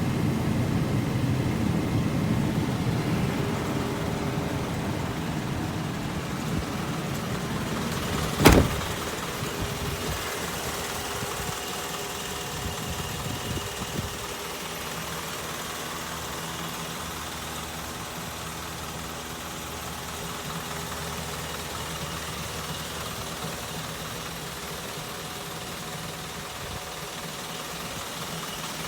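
Isuzu Forward truck engine idling steadily, louder in the first few seconds and settling to a quieter, even idle. A single sharp knock sounds about eight and a half seconds in.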